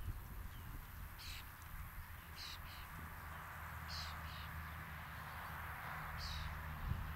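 Short, high bird calls, single or in quick pairs, about every one to two seconds, over a faint steady outdoor background.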